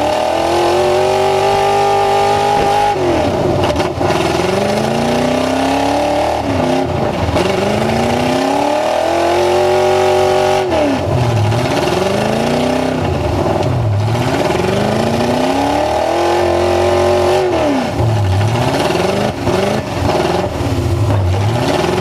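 Full-size truck engine revved hard over and over: it climbs, holds at high revs for a second or two, and drops back, with shorter quick blips of the throttle in between.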